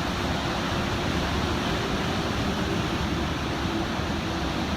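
Floodwater rushing in a steady, even roar.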